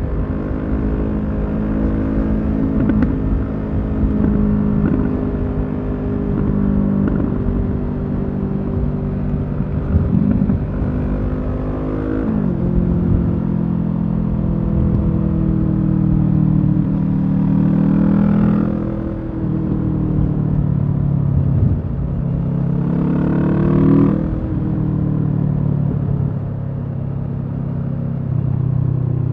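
Kawasaki Z650 parallel-twin engine through a Leo Vince EVO carbon exhaust, ridden at a steady pull. Its note holds even for long stretches and drops sharply at gear changes about twelve seconds in and again just after twenty-four seconds, over a low rush of wind.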